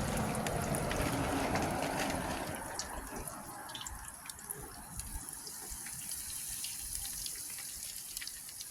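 Hot frying oil sizzling in a pan, louder for the first few seconds and then settling to a quieter hiss with scattered crackling pops; the grease is at frying heat.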